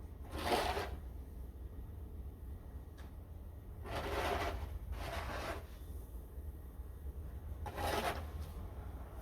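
Snow shovel scraping through snow in about four separate strokes, with a steady low rumble underneath.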